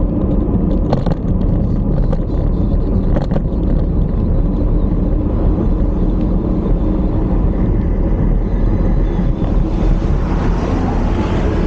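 Steady low rumble of wind buffeting the microphone on a moving bicycle, with a couple of short clicks in the first few seconds. A hiss swells near the end.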